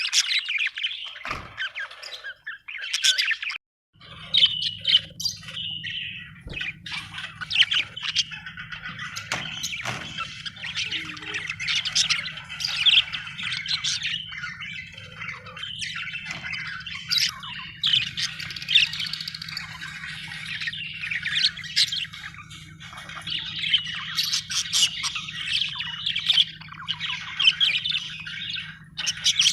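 Budgerigars chirping and chattering continuously in quick, overlapping calls with squawks mixed in. There is a brief break just before four seconds in, after which a steady low hum sits under the birds.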